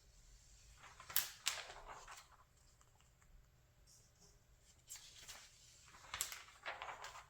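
Magazine pages being turned by hand: two soft, rustling page flips, one about a second in and another about five seconds in, each a quick papery swish.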